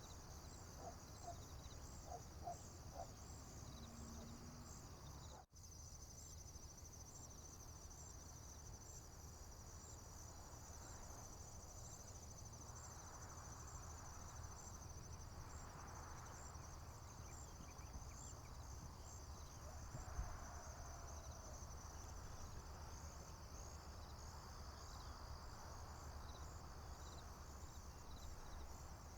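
Field insects, crickets among them, chirping and trilling in a steady high chorus over a faint low rumble. The sound cuts out for an instant about five seconds in.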